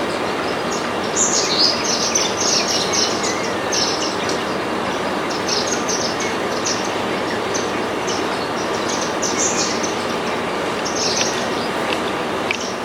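Small seed-eating birds, Indian silverbills with a baya weaver among them, chirping in quick high clusters at a feeder. A steady rumbling background noise, like a passing train or traffic, runs underneath.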